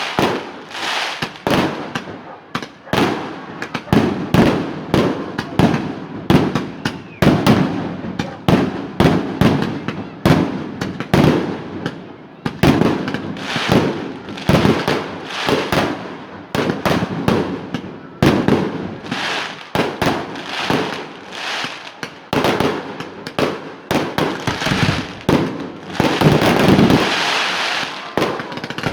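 Fireworks display: an unbroken run of loud bangs from exploding shells, several a second, with their echoes overlapping.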